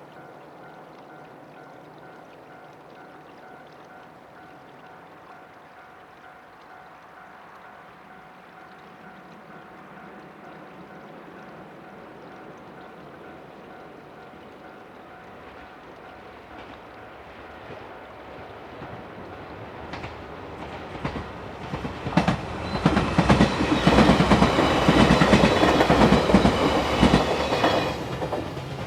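Level-crossing warning bell ringing faintly and steadily while a JR 273 series electric limited express train approaches, growing louder from about two-thirds of the way in. The train then passes close by with a rapid clickety-clack of wheels over rail joints, the loudest part near the end, easing off just before the end.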